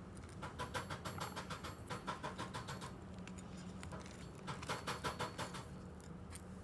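Rapid metallic clicking and clinking in two runs, the second starting about four and a half seconds in, as the parts of a car's front strut assembly are handled.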